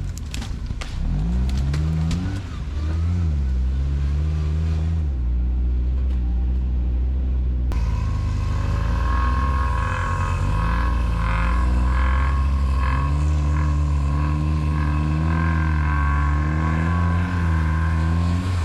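Quad bike (ATV) engine running under load, its pitch rising and falling as the throttle is worked, with a few knocks near the start. About eight seconds in, a steady higher whine joins the engine sound.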